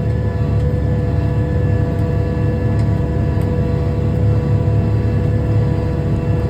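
M6 tractor's diesel engine running steadily under load, heard from inside the cab while it pulls a disk harrow over rough ground: a constant low drone with a steady whine above it.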